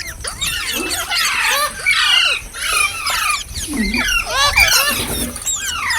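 Indian ringneck parrot calling: a dense run of quick, shrill calls that sweep up and down in pitch, several overlapping at once.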